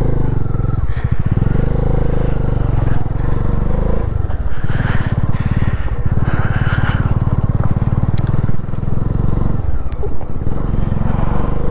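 Bajaj Dominar 400's single-cylinder engine running while being ridden, its note dipping briefly several times as the throttle eases and picks up again.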